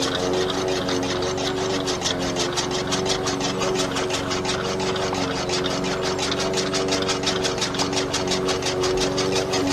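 Engine running steadily, with a fast, even ticking over a held hum.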